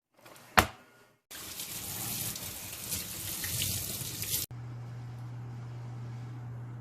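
A sharp click, then a tap running water into a sink for about three seconds, stopping abruptly; after that a steady low hum.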